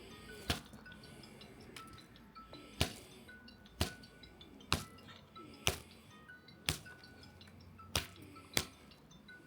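A series of sharp knocks or strikes, about one a second and slightly irregular, with faint short steady tones between them.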